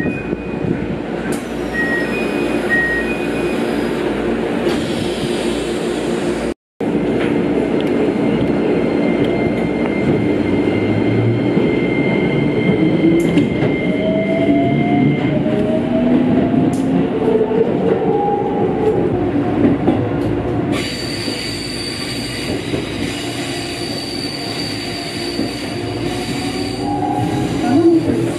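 Keikyu electric commuter train heard from inside the car, with a few short electronic beeps about two seconds in. Then comes the running noise of wheels on rail, with the motors' whine rising in pitch as the train picks up speed.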